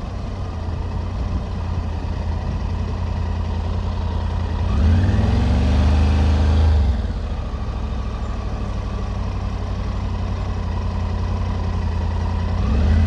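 Triumph Tiger 900 GT Pro's three-cylinder engine running steadily at low speed. About five seconds in, its note swells louder, rising and then falling over about two seconds, and a smaller swell comes near the end.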